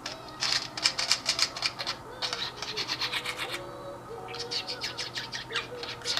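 Pet bird chattering: three bursts of rapid, sharp high-pitched clicks and chirps, each lasting a second or so, with short pauses between.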